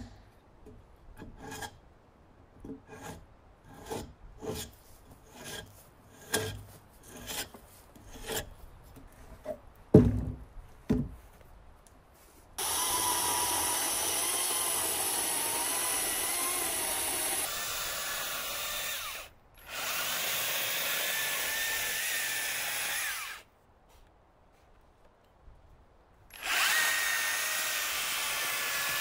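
Irregular knocks and taps of wood being handled, then a handheld power tool running into wood with a steady whine in three long bursts, with short pauses between them.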